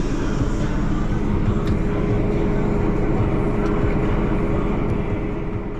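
Heavy diesel harvest machinery running steadily: a dense engine drone with a steady hum, fading away near the end.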